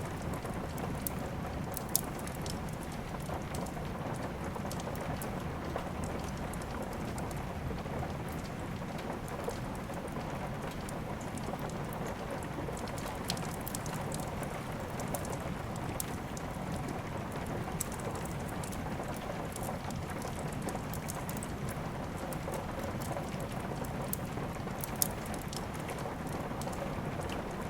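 Steady rain with a wood fire crackling, with a few sharp pops standing out: one about 2 seconds in, one about 13 seconds in, and the loudest about 25 seconds in.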